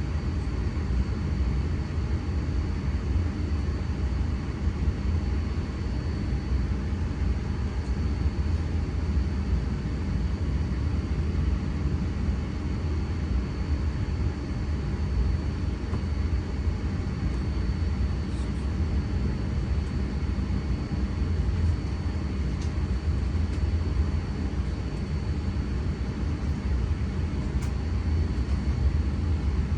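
Steady low rumble of an electric train running, with a thin, steady high whine over it and no breaks or changes.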